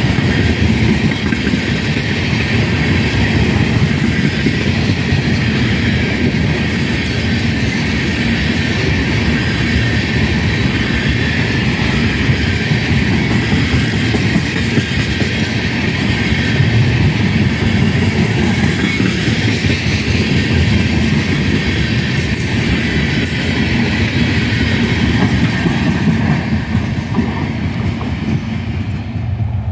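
Freight train of tank cars rolling past, its steel wheels on the rails making a steady rumble with a steady high-pitched whine above it.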